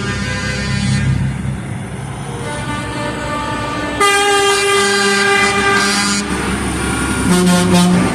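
Truck air horns sounding long, chord-like blasts, one after another, with a loud blast starting about four seconds in and a short, loud one near the end, over the low rumble of idling truck engines.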